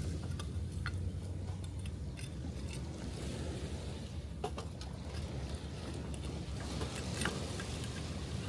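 Wood campfire crackling, with scattered sharp pops and snaps at irregular intervals, the loudest just past halfway and near the end, over a steady low rumble of surf.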